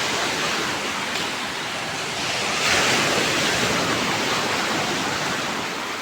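Rough sea surf breaking on the shore: a steady rush of crashing waves that swells louder about two and a half seconds in.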